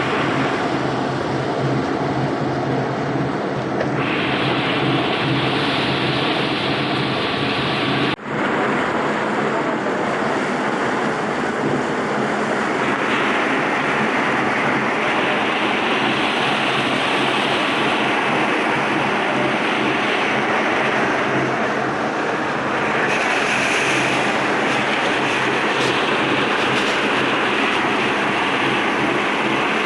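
Tour boat's engine running steadily, with a low hum under wind and water rushing past. The sound drops out for a moment about eight seconds in.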